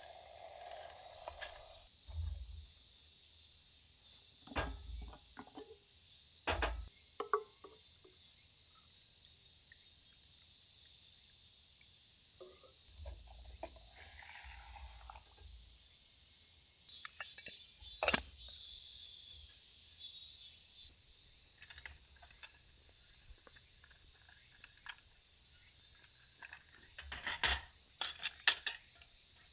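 Scattered clinks and knocks of metal camp cookware being handled, with a cluster of sharp clicks near the end, over a steady high hiss that fades out about two-thirds of the way through.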